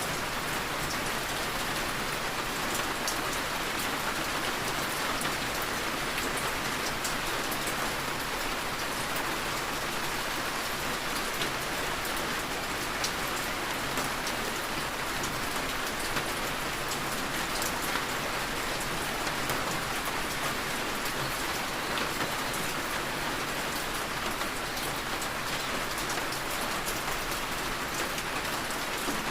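Steady heavy rain: a dense, even hiss sprinkled with the ticks of individual drops.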